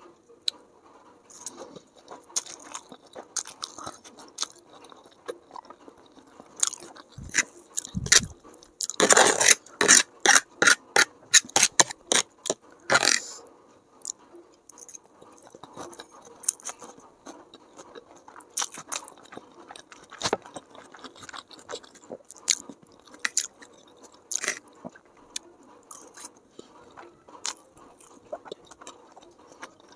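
Close-up eating sounds of chow mein noodles: wet chewing and mouth clicks, with a dense run of louder rapid clicks between about nine and thirteen seconds in. A metal fork scrapes against the tray from time to time.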